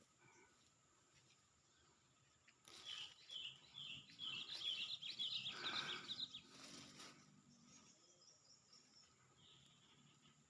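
A wild bird calling in a quick run of repeated high chirps, from about three seconds in to past the middle, with faint rustling around it.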